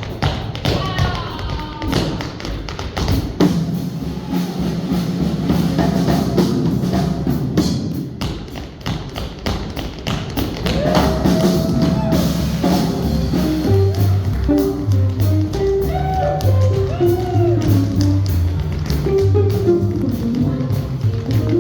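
Tap shoes striking the floor in quick, irregular rhythms over swing music.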